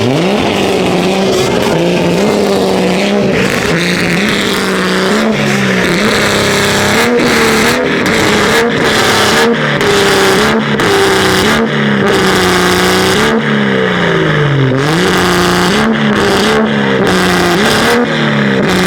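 Car engines revving hard, the pitch climbing and dropping again and again, with sharp cracks in between.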